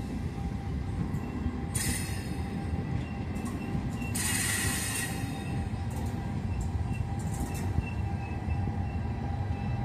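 Passenger train coaches rolling slowly along the station track: a steady low rumble of wheels on rail, with two short high-pitched screeches about two seconds and four and a half seconds in.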